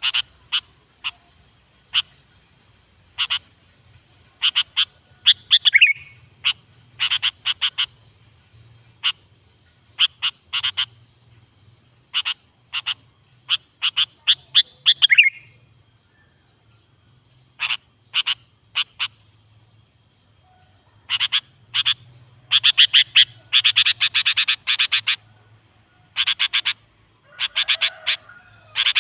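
Sooty-headed bulbul (kutilang) singing: clusters of quick, chattering chirps with short pauses between them, busiest in a dense run past the middle. A faint steady high tone runs underneath.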